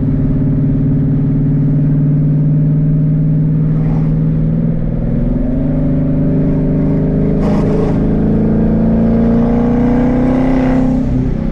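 Twin-turbo Mustang running on open exhaust dumps, loud throughout. The revs step up about five seconds in, as on a downshift, then the engine pulls with a steadily rising pitch before easing off near the end.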